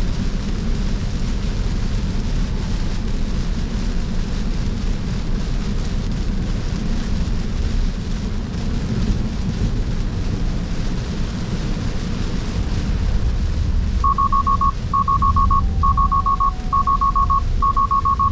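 Steady road and tyre noise in a Cybertruck's cabin, then about fourteen seconds in an alarm of rapid high beeps in five bursts, running on to the end. It is the takeover alert when Full Self-Driving kicks out and hands control back to the driver, which he thinks might have been caused by the rain.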